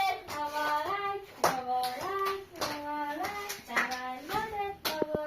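Children singing a Persian birthday song with hands clapping along in time.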